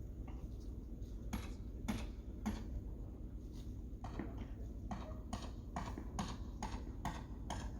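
A run of sharp knocks and clacks aboard a small sailboat, sparse at first and then coming about two or three a second in the second half, over a steady low rumble.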